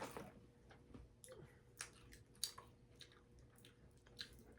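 Faint close-up chewing of candy-coated chewy candy bites, with a few sharp mouth clicks scattered through it.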